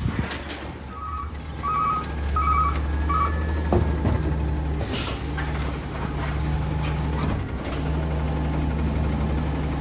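A Peterbilt 320 garbage truck's diesel engine runs with a steady low hum while a backup alarm beeps four times in the first few seconds. A short hiss of air, like an air brake, comes about halfway through.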